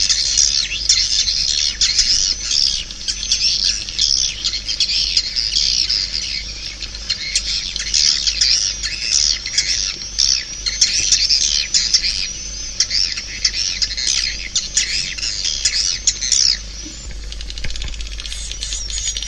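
Swiftlet calls: a dense chorus of rapid twittering chirps, the kind of swiftlet call recording played through tweeters to draw swiftlets into a swiftlet house. About two-thirds of the way in the chorus thins out and gets quieter.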